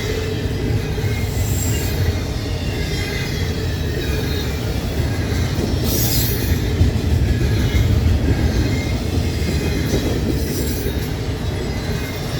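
Double-stack intermodal freight cars rolling past at about 30 mph, a steady rumble of steel wheels on rail. Brief high-pitched wheel squeals come about six seconds in and again near ten seconds.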